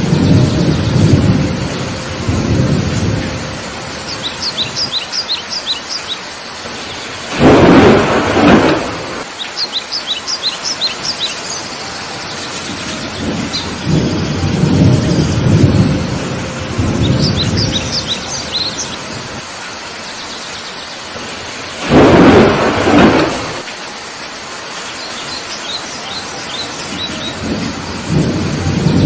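Heavy rain falling steadily while thunder rumbles low again and again, with two louder, sharper thunderclaps. A bird chirps in several short runs of quick high notes between them.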